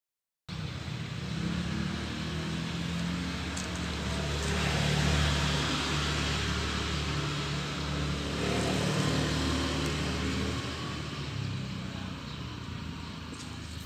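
A motor vehicle's engine running, starting abruptly after a brief silence and swelling twice as if vehicles pass or rev, then easing off.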